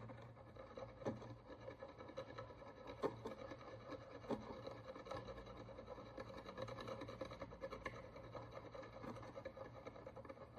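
Faint scraping and rubbing of a hand tool working the crust off an ancient bronze coin, with a few sharp little clicks about one, three and four seconds in.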